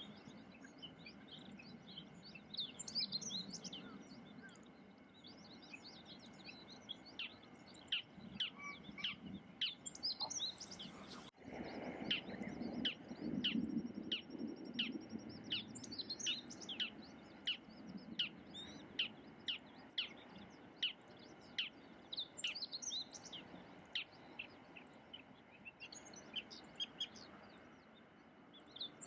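Small songbirds chirping: many short, high calls that settle into a run of quick chirps about once a second, with a brief hiss and a sudden break about eleven seconds in.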